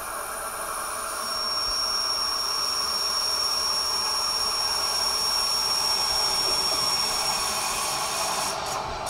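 An approaching electric commuter train, still out of sight: a steady hiss with a thin, high-pitched whine that comes in about a second and a half in and fades out near the end.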